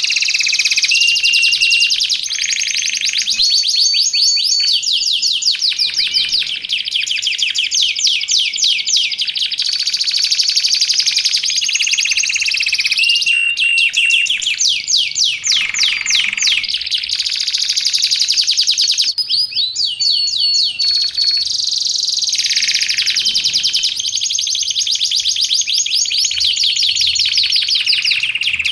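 Domestic canary singing continuously: fast rolling trills alternating with held whistled notes and chirps, loud and unbroken.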